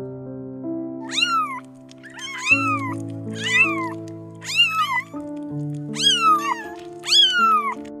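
Kitten meowing six times, about one call a second, each call rising then falling in pitch, over background music with held notes.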